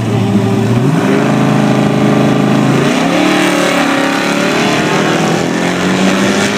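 Drag-racing engine accelerating hard. Its pitch rises about a second in, changes again around three seconds in with a sweep up and down, then settles.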